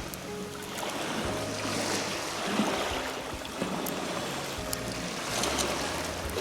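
Surf washing on a beach, swelling and falling away, under soft background music with held notes.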